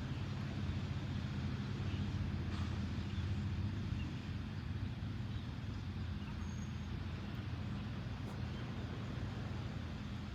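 Steady low outdoor rumble of seaside ambience, with a few faint high chirps.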